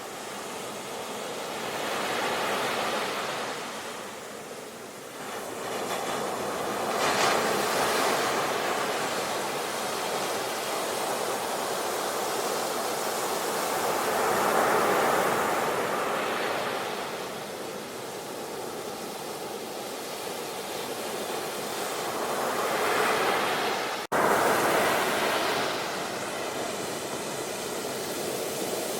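Sea waves breaking on a shore, the surf swelling and ebbing every few seconds. A split-second gap about three quarters of the way through, after which the surf comes back louder.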